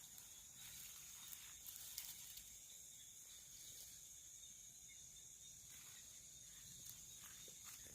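Near silence with a faint, steady, high-pitched chorus of night insects such as crickets, and a few faint clicks, the clearest about two seconds in.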